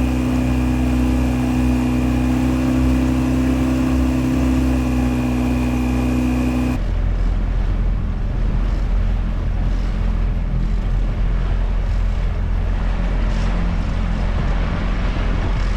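Boat's outboard motor running at a steady trolling speed. About seven seconds in, its steady hum cuts off abruptly, leaving a low, even rushing of wind and water.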